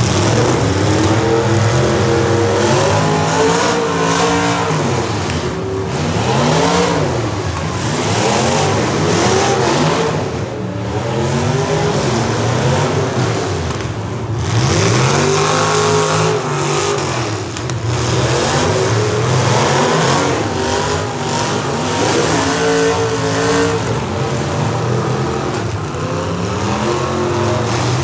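Several demolition derby cars' engines revving hard and over and over at once, their pitch climbing and falling as the cars accelerate and back up, with now and then a thump or crunch of cars colliding.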